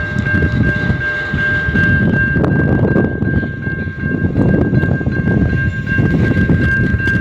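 Freight train wagons rolling slowly past, a heavy rumble with clanks and knocks, over a steady high-pitched squeal that holds throughout.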